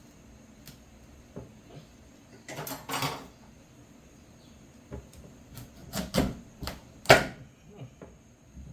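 A knife cutting into a pumpkin on a chopping board: a short rasping cut, then a run of irregular sharp knocks, the loudest about seven seconds in.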